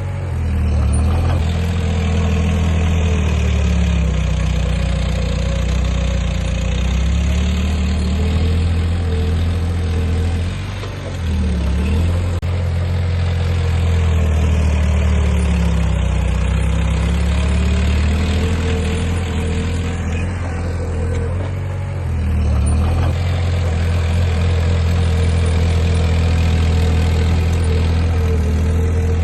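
Heavy diesel engine of earthmoving machinery running under load, a loud low hum whose speed sags and picks up again about ten seconds in and once more past the twenty-second mark.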